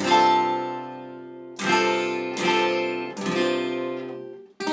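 Acoustic guitar strumming the closing chords of a song: a few single strums left to ring and fade out one after another, a brief break, then one more chord struck at the end.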